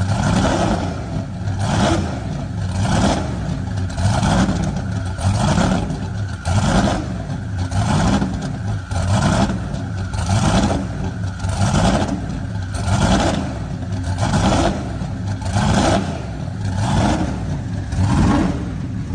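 High-performance car engine revving again and again, the pitch rising and falling about once a second.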